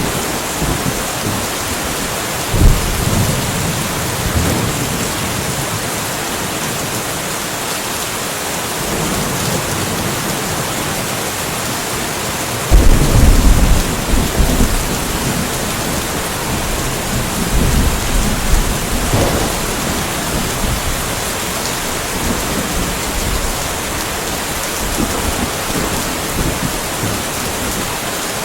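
Steady rainfall with thunder. A short rumble comes about two and a half seconds in, then a sudden loud thunderclap near the middle that rumbles on for several seconds before fading back into the rain.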